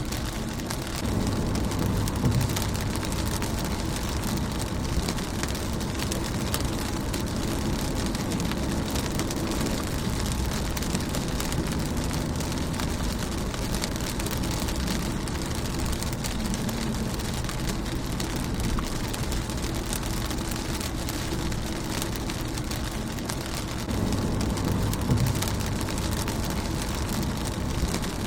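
Rain falling on a car's windshield: a steady patter of many small drops. A low rumble swells under it twice, about a second in and again near the end.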